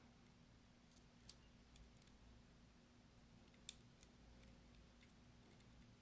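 Near silence with a few small, sharp clicks of tools and parts being handled while a ribbon-cable connector is pressed into an iPhone SE; one click a little over a second in, a louder one past halfway.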